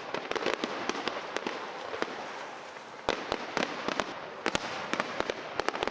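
Fireworks display going off: an irregular run of sharp cracks and bangs over a steady crackling hiss, with a denser cluster of cracks from about three seconds in.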